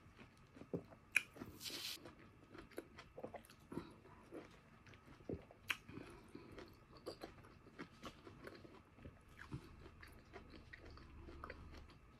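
A person biting and chewing orange segments close to a clip-on microphone: soft wet mouth sounds and small clicks, with one louder, longer noisy sound just over a second in.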